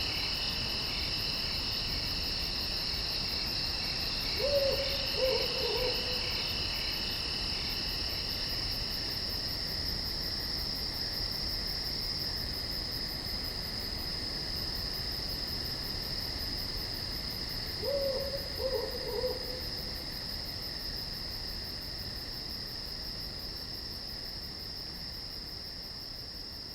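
Night chorus of crickets trilling steadily at a high pitch, with an owl giving a short series of hoots twice, about 13 seconds apart. The chorus fades slowly toward the end.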